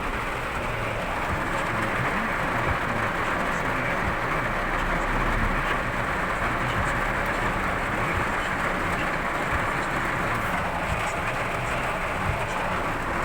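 Torrential rain pouring down steadily, with a low rumble of traffic on the wet street beneath it.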